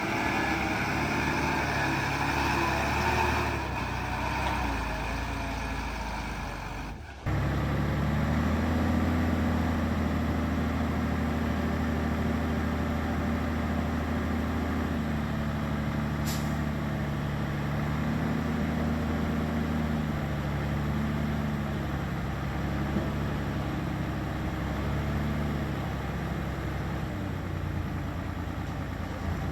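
Heavy diesel earthmoving machinery running, its engine pitch rising and falling as it works. The sound changes abruptly about seven seconds in, and a steady lower engine tone follows.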